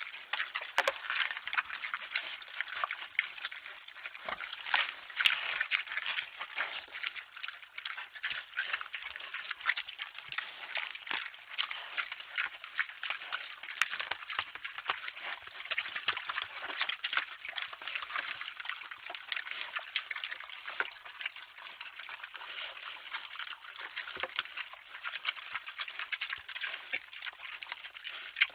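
Animals eating at a feeding table: a dense, irregular run of small clicks, taps and crunching that continues without pause.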